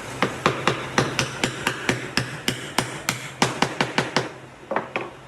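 Hammer blows on wood in a steady, quick rhythm of about four strikes a second. They stop about four seconds in and are followed by two lighter taps.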